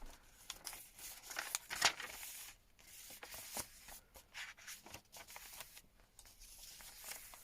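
Paper rustling and scraping as the pages, tags and tucks of a handmade junk journal are handled and turned, in short irregular bursts that are busiest in the first couple of seconds.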